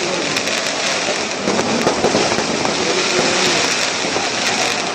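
Fireworks display: a dense, continuous crackle of many small rapid pops from firecrackers going off together.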